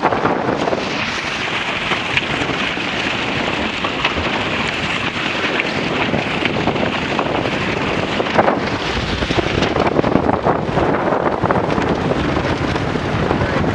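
Wind buffeting the microphone over the steady rush and hiss of water past the hulls of a Grabner Hurricane catamaran sailing fast in a strong breeze, with scattered splashes of spray.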